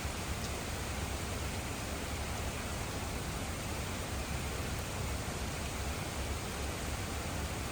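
Steady rain falling, an even unbroken hiss with a low rumble underneath and no single drops or pauses standing out.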